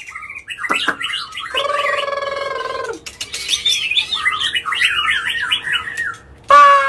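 White-rumped shama singing a fast, varied song of sliding whistles and chattering notes. About a second and a half in it holds a long, harsh, buzzing note, and near the end it gives a loud whistle that slides downward.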